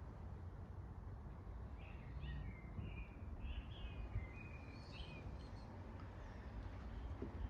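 Steady low background rumble with a bird singing a string of short chirps and whistles from about two to five seconds in.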